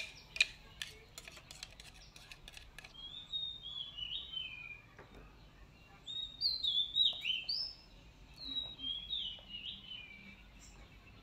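A songbird singing in three spells of quick, downward-sliding whistled notes, loudest in the middle spell. In the first few seconds a metal spoon clicks several times against a glass blender jar as paste is scraped out.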